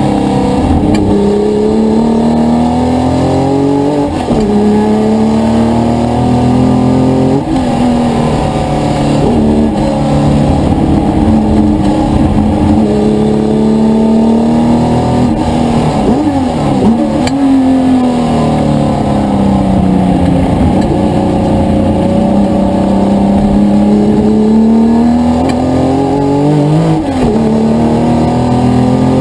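A historic touring car's engine running hard under load, its pitch climbing with revs and dropping sharply at gear changes about four, seven and a half, seventeen and twenty-seven seconds in. In between, the revs fall and rise again more slowly.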